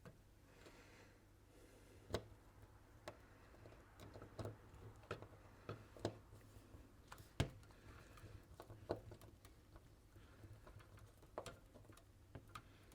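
Faint, irregular clicks and taps of tweezers and small metal parts being handled while tucking wires inside a microphone body, with one sharper click about seven seconds in.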